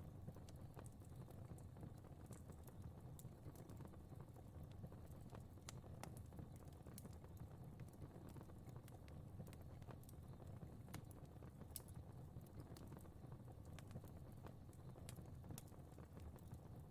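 Fire crackling quietly: irregular sharp crackles and pops over a low, steady rumble.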